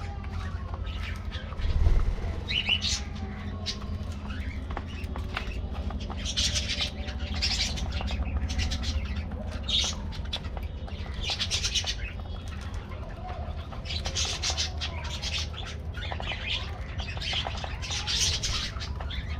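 A flock of budgerigars chirping and chattering in short, repeated squawky bursts, over a steady low hum, with a louder thump about two seconds in.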